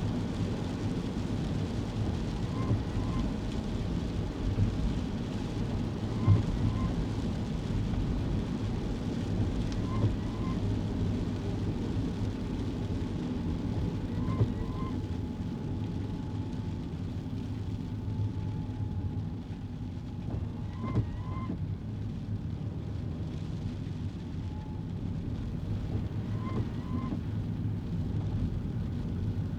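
Kei car cabin on a wet road: a steady engine and tyre hum with rain noise, and a short double chirp about every four seconds.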